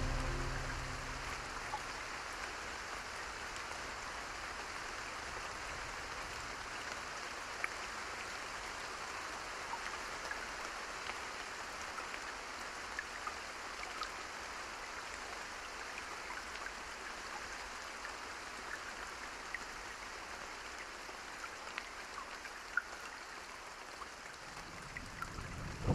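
Steady rain falling, an even patter with scattered single drops ticking through it.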